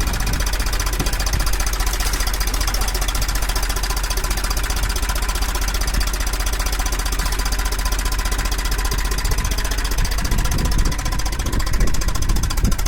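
Tractor's diesel engine running with a steady, rapid knocking beat. The low rumble grows louder about ten seconds in.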